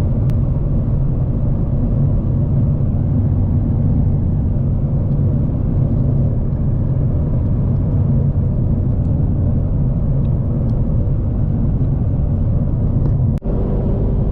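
Twin-turbocharged Mustang GT V8 with Corsa Sport exhaust cruising at a steady speed, a low even drone with road noise. There is a single brief drop in the sound near the end.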